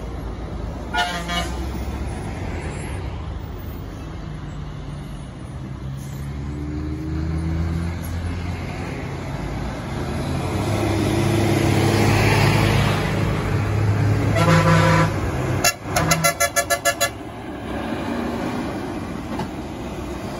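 A truck's diesel engine pulling through a tight hairpin bend, its note swelling and loudest a little past the middle. A short stuttering horn sounds about a second in, and a longer rapidly pulsing horn blast near the end.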